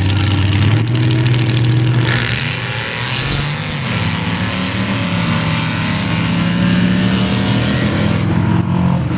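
Drag-racing engines running hard on a sand drag strip. About two seconds in, the noise swells sharply as the vehicles launch and accelerate, and the engines hold high revs after that.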